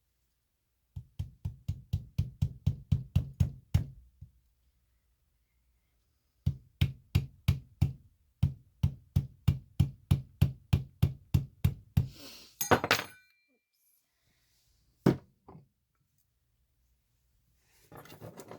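Hammer tapping a thin chisel into the layer of a fossil-bearing rock slab to split it: a quick run of taps, about four or five a second, then after a pause a longer run. It ends in a brief crackle as the slab gives way along the layer, and one more single tap.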